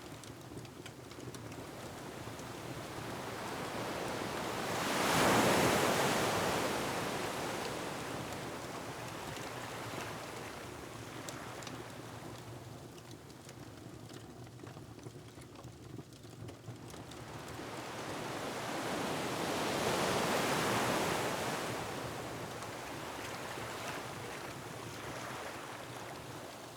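Ocean waves surging and breaking on a rocky shore: two big swells build and crash, about five seconds in and again about twenty seconds in, with the wash of surf between. Faint crackling of a wood fire runs underneath.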